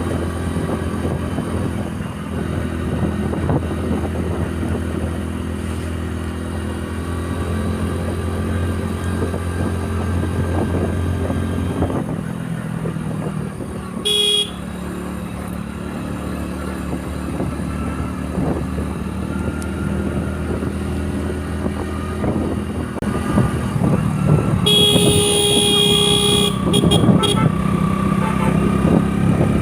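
Motorcycle engine running steadily while riding, with road and traffic noise. A vehicle horn sounds once briefly about halfway through, and again in a longer series of honks near the end.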